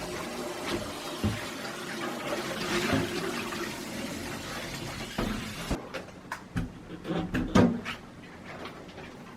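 Tap water running into a sink, shut off abruptly about six seconds in, followed by a few short knocks and clacks of things being handled.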